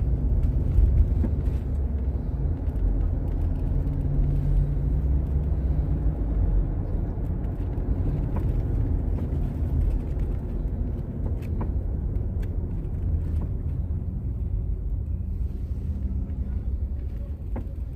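A moving vehicle heard from inside: a steady low rumble of engine and road noise, with a few faint clicks.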